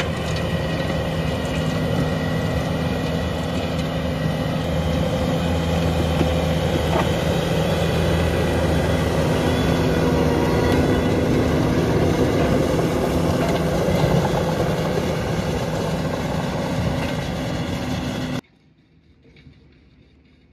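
A skid-steer running the Coneteks 2.13SF forestry attachment: a steady, loud machine sound with an engine hum. It cuts off suddenly near the end.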